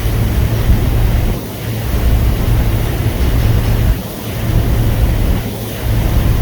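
Wind buffeting the microphone, swelling and easing every second or two over a steady rushing noise.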